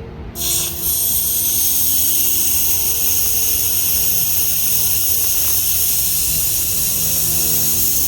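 A steady spraying hiss that starts abruptly under a second in and holds at an even level, over soft background music.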